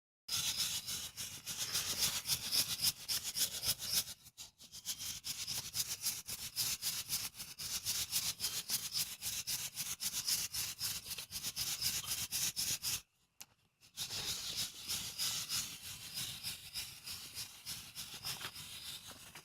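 Coffee beans rattling as they are shaken rapidly and continuously in a hand roaster over a wood fire, stopping briefly twice.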